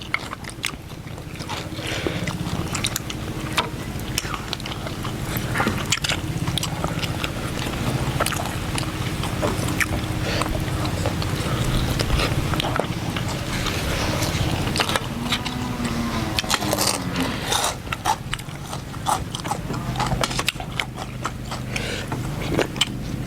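Close-up eating sounds: chewing and biting, with many small clicks and crunches, over a steady low hum.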